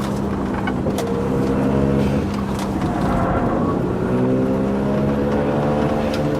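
Mazda Roadster's four-cylinder engine running at a steady, loud drone with a few sharp clicks and rattles. The car has the heavy vibration and abnormal noise its owner complains of.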